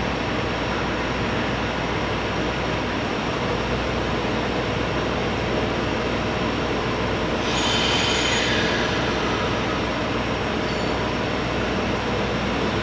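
JR Hokkaido 721 series electric train running, a steady rumble with faint steady tones. A high-pitched squeal comes in about seven and a half seconds in and lasts a second or two.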